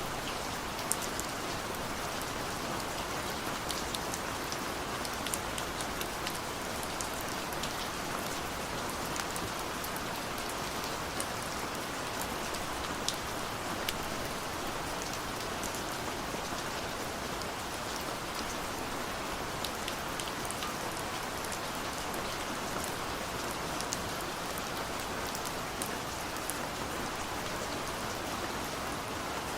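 Steady rain falling, an even hiss with many individual drops ticking sharply on surfaces throughout.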